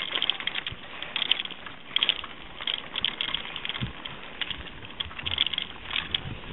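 Bicycle rattling and clicking as it is ridden over a rough road, a dense run of small irregular clicks and jolts.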